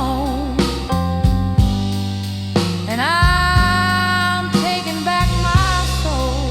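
Slow blues music: a lead guitar line with bent notes and a long rising glide about three seconds in, over bass and drums.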